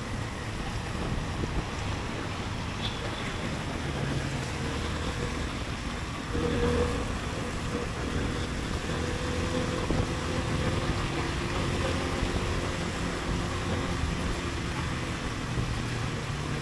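Riding a motorcycle: wind rushing over the microphone along with the engine and road noise, running steadily. A steadier engine note comes through about four seconds in.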